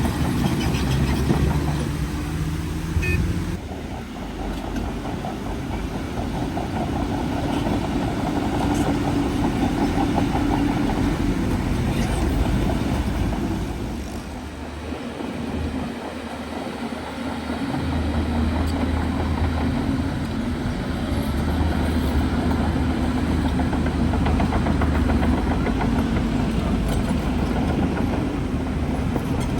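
Bulldozer's heavy diesel engine running continuously as it works, its note shifting with load and easing off for a few seconds around the middle.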